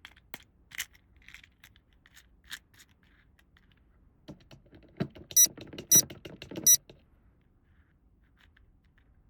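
Small plastic toy pieces clicking and clattering while being handled. About five seconds in, three short, loud, high-pitched electronic beeps sound over the rattling.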